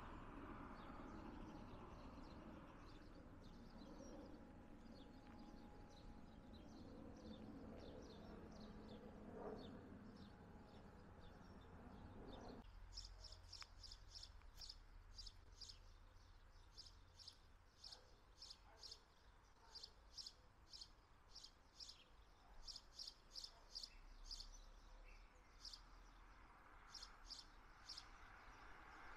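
Faint outdoor background hum that cuts off about halfway. After that, small birds chirping in quick runs of short, high notes.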